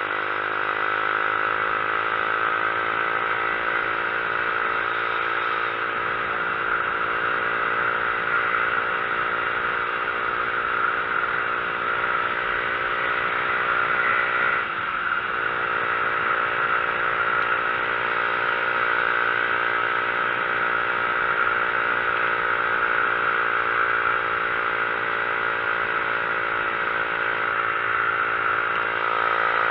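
A vehicle engine pulls steadily on the road, mixed with constant wind and road noise. The engine note dips and climbs again about halfway through, as at a gear change.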